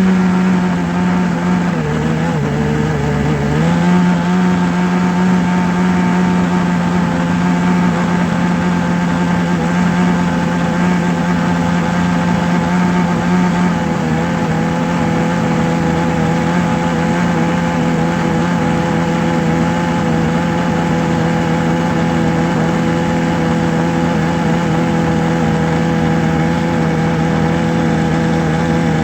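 A steady motor hum with a strong even pitch, dipping briefly in pitch about two seconds in before returning to speed.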